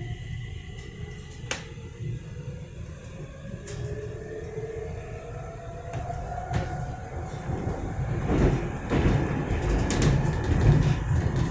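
Metro train running between stations, heard from inside the car: a low rumble of wheels on rail with scattered clicks, and an electric motor whine rising in pitch for a few seconds as the train gathers speed. The rumble grows louder near the end.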